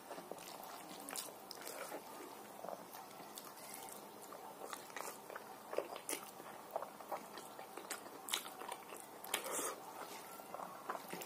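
A man eating rice by hand: close chewing and mouth noises, with irregular short clicks.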